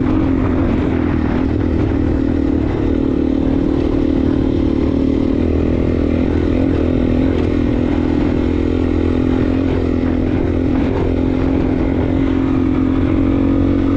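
Suzuki DR-Z400S single-cylinder four-stroke dirt bike engine running at fairly steady revs while being ridden, with small rises and dips in pitch.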